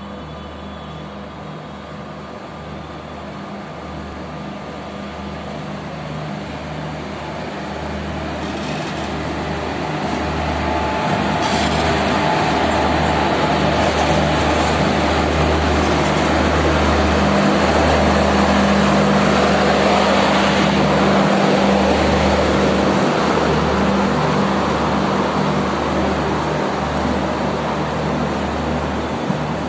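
An Indian Railways electric locomotive hauling a train of passenger coaches pulls in along the platform. Its steady low hum and the rumble of the train grow louder as the locomotive draws level about halfway through. The coaches then roll past with a continuing rumble that eases slightly near the end.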